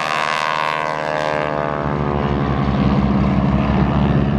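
Propeller-driven piston aircraft engine passing, its tone falling in pitch over the first second or so, then settling into a steady, low, pulsing drone.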